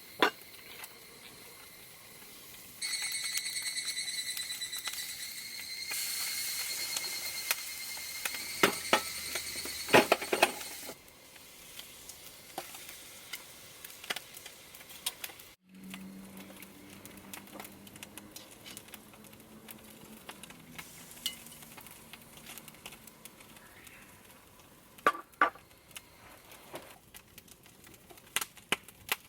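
Scallops grilling in their shells over charcoal, sizzling loudly for several seconds with a high, steady whistling hiss and a few sharp knocks. The sizzle then gives way to quieter scattered clicks and ticks.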